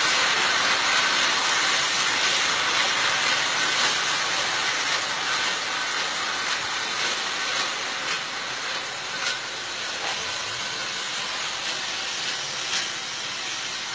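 Metro train running through the station, a steady rushing hiss that slowly fades, with a few faint clicks near the end.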